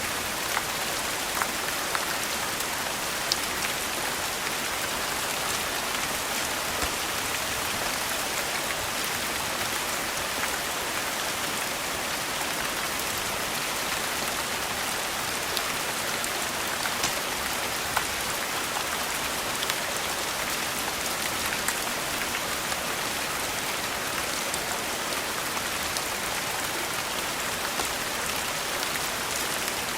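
Steady rain falling, an even hiss with scattered sharp ticks every second or two.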